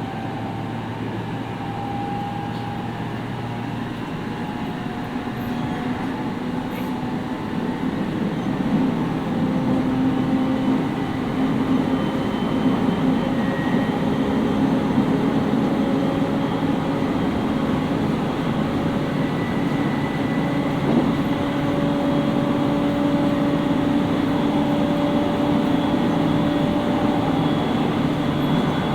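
Interior running sound of a JR East 701 series electric train, heard inside the motor car: steady rumble of wheels on rail with a motor and gear hum that drifts slightly upward in pitch. The noise grows louder about eight seconds in.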